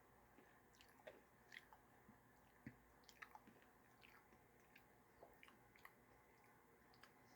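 Faint chewing of yogurt with crunchy mix-ins, with small scattered mouth clicks, barely above room tone.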